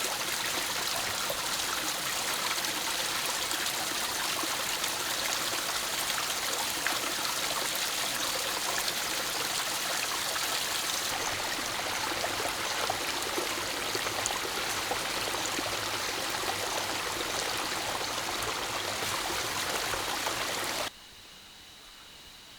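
Steady rushing of water, a dense even hiss, which cuts off suddenly near the end.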